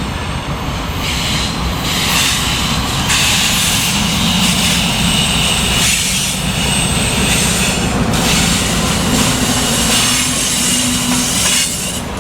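Train cars rolling past on the rails, with wheels clattering and a steady high-pitched wheel squeal running through it.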